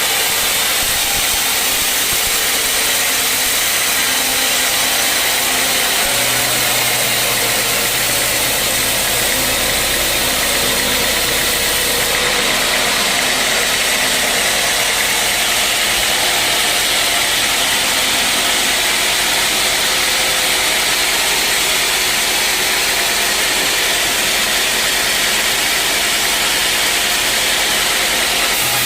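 Sawmill machinery running steadily, an engine-like drone under a constant hiss, with no cut starting or stopping.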